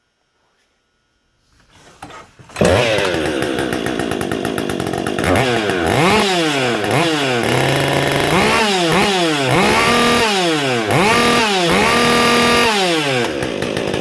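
Husqvarna 562 XP two-stroke chainsaw fitted with a ported Buckshot muffler, starting about two and a half seconds in and then revved over and over, its pitch climbing and falling with each blip of the throttle.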